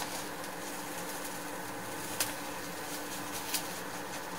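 Kimchi pancake frying in oil in a pan, a steady sizzle, with two short clicks about two seconds and three and a half seconds in.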